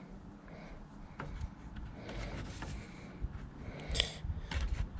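Light handling noises from work on a lawnmower's fuel tank and hose: a few faint clicks, a sharper click about four seconds in, then a quick cluster of small clicks.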